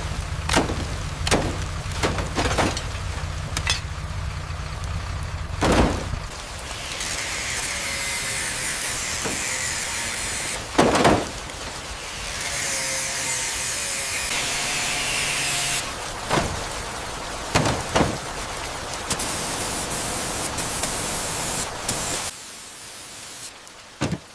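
Rapid sequence of workshop restoration sounds: a low rumble with sharp knocks over it, then two long spells of spray hiss with a loud knock between them, followed by scattered clicks and knocks.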